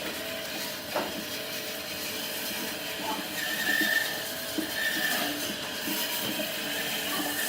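Wood lathe running, with a turning tool cutting and scraping the spinning wood; a steady machine noise with faint tones that come and go, and a short knock about a second in.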